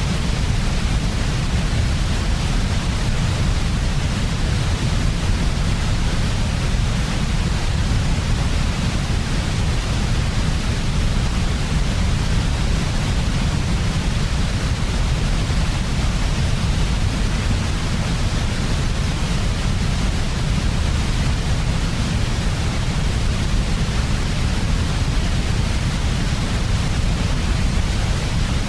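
Steady, unchanging white noise for baby sleep: a constant hiss heaviest as a deep rumble at the bottom, with a softer airy hiss on top.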